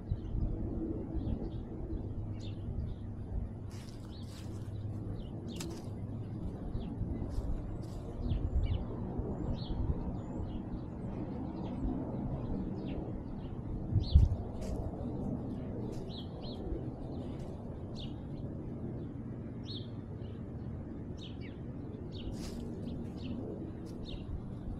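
Small birds chirping in short, scattered calls over a steady low rumble of rubbing and movement noise from a cat's collar-worn camera, with a single thump about fourteen seconds in.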